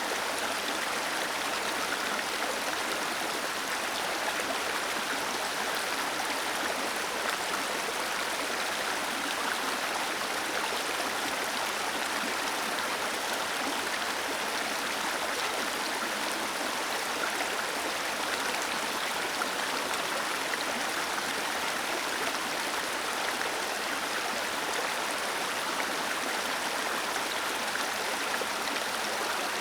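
Water cascading down a small waterfall: a steady, even rush of splashing water that does not change.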